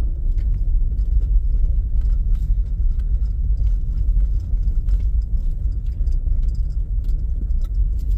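Steady low rumble of a car driving over rough ground, with scattered light rattles and clicks.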